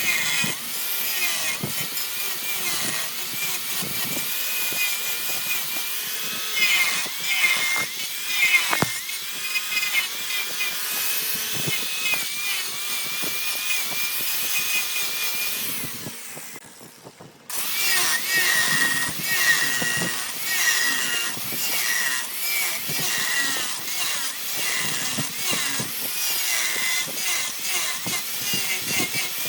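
Wood lathe spinning a log while a turning gouge cuts it: a continuous scraping hiss with a wavering whine. It fades out briefly about two-thirds through and comes back abruptly.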